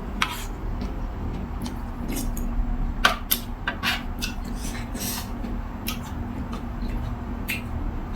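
Spoon and chopsticks clinking and scraping against a noodle-soup bowl while eating, in short irregular clicks, the sharpest cluster about three seconds in, over a steady low hum.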